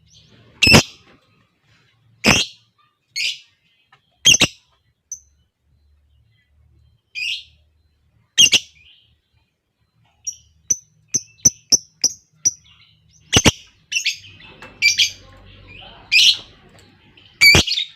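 Lovebirds calling: loud, sharp, harsh chirps spaced a second or two apart, with a quick run of about half a dozen short, high chirps about ten seconds in.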